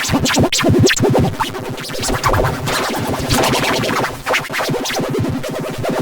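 Heavily effects-processed, distorted audio: fast stuttering pulses and quick pitch sweeps that sound like electronic record scratching.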